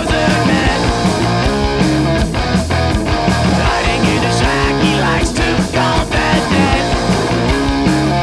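Live punk rock band playing loud and full-on: distorted electric guitar, bass and drums with steady, regular drum hits.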